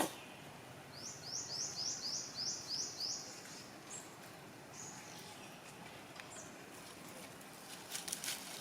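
A bird singing a quick run of about eight high, repeated notes, each sweeping up and then levelling off, starting about a second in and lasting about two seconds, over faint outdoor ambience. A few faint clicks follow near the end.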